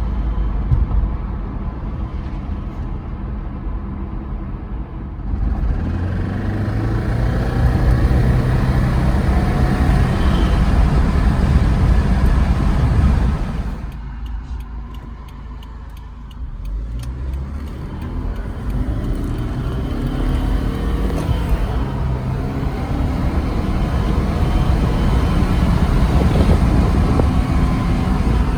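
2014 Subaru Forester XT's turbocharged 2.0-litre FA20 flat-four pulling under acceleration on the road, rising in pitch, easing off about 14 seconds in, then pulling again. Under throttle it carries the knock the owner puts down to a spun bearing.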